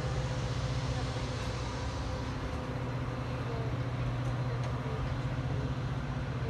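A train's diesel locomotive running with a steady low drone.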